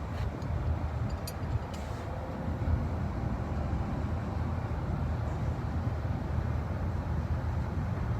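Steady low rumble of a running engine, with a few light clicks in the first two seconds.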